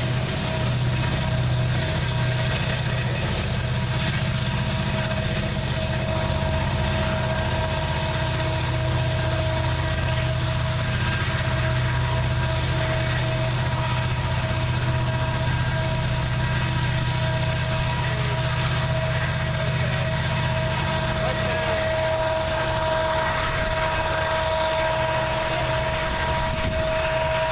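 Norfolk Southern freight train making a steady, continuous rumble with a constant high whine running through it.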